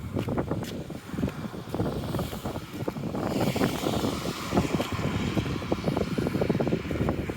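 Wind buffeting the microphone in gusts, with traffic noise: a vehicle's tyre hiss builds from about three seconds in.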